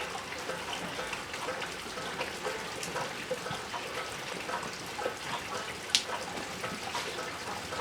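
Water trickling and splashing steadily, with a single sharp click about six seconds in.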